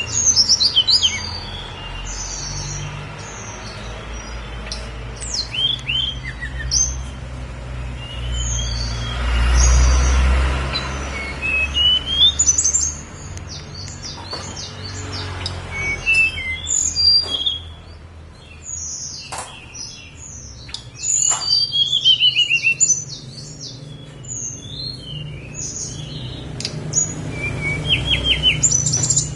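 Tledekan gunung (sulingan) songbird singing: rapid, varied high chirps, trills and sweeping whistled phrases, with a falling trilled phrase a little past the middle and a quick run of repeated notes near the end. A steady low rumble sits underneath, swelling for a couple of seconds about a third of the way in.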